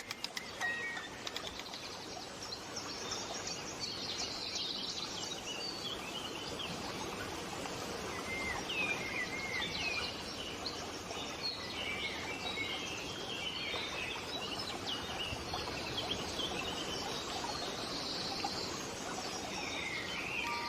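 Wild birds chirping and singing in short, quick phrases over a steady background hiss of outdoor ambience. A last music-box note fades in the first second.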